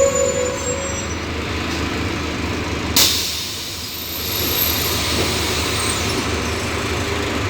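Scania city bus running, with a short, sharp hiss of released compressed air about three seconds in that fades over about a second.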